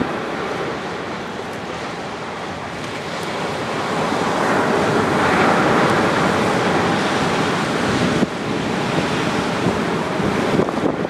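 Surf breaking and washing up a sandy beach from a slightly rough sea. It swells to its loudest about halfway through, then eases.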